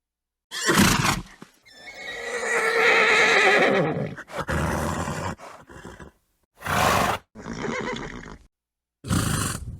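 Horse whinnying: one long, quavering neigh of about two seconds, set among several short noisy bursts, with dead silence between the pieces where separate recordings are cut together.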